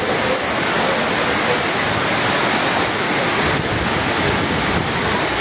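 Heavy rainstorm: a loud, steady rushing noise of pouring rain and running water.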